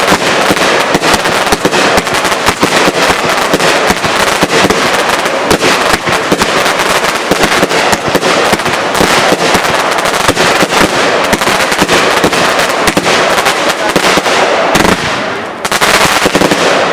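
Consumer fireworks going off in a dense, rapid string of crackling pops, with a short lull and then a louder burst near the end.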